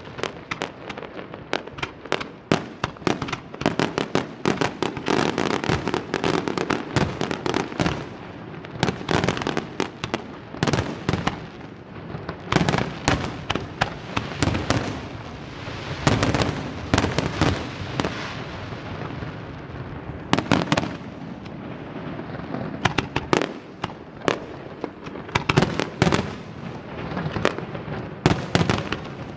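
Aerial fireworks display: a dense, irregular barrage of shell bursts and bangs, with crackling between them.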